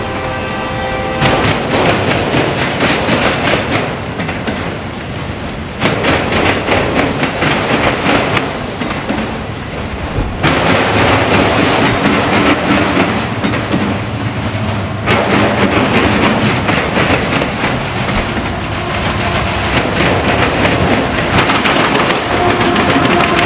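Train passing close by: a steady rumble with wheels clacking over the rails, and a train horn that stops about a second in.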